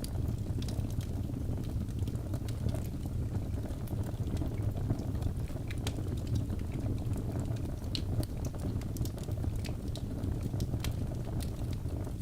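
Birch logs burning in a fireplace: a steady low rumble of the flames with frequent sharp crackles and pops scattered throughout.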